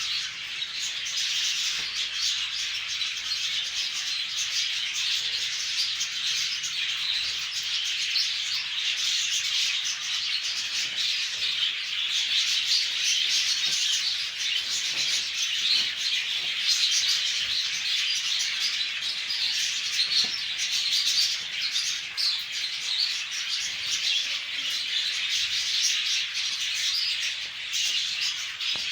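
A group of conure parrots chirping and chattering continuously, many calls overlapping at once.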